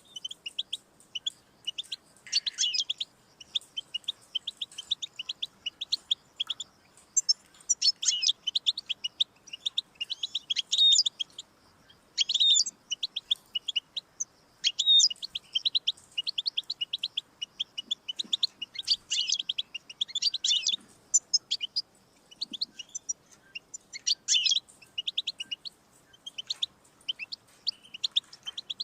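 European goldfinch singing: a continuous run of fast, high twittering trills and chirps, with louder bursts every few seconds.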